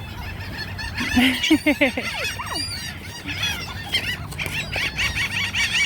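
A crowd of birds calling, many short calls overlapping one another, with a louder cluster of lower calls about a second in.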